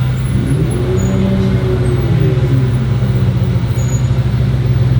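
Ferrari F40 LM's twin-turbo V8 with a straight-pipe exhaust idling steadily. A second, higher engine tone rises and falls once over the first three seconds.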